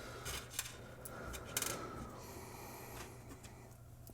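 Faint, brief clicks and rustles of small parts being handled on a workbench, over a low steady hum.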